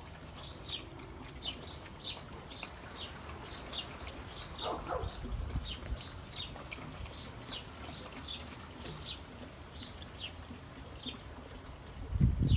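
Birds chirping steadily in the garden: many short, high, falling chirps, several a second. A low thump near the end.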